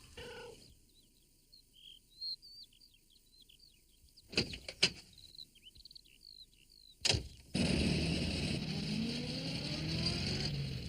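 Soft bird chirping, a few clunks like a van door shutting, then the small van's engine starts and runs, rising in pitch as it pulls away.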